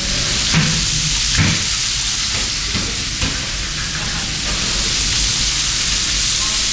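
Egg-coated salmon pieces sizzling in hot oil on a galley's flat frying pan, a steady hiss as more pieces are laid in. Two soft knocks of utensils or pans come in the first two seconds.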